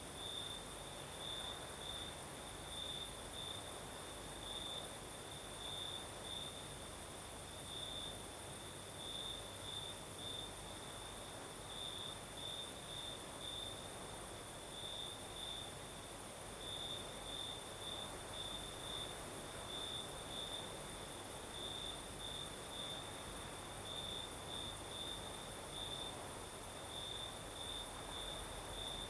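Crickets chirping at night: one cricket repeats short high chirps in an uneven rhythm over a steady, even higher trill of other insects, with a soft breeze underneath.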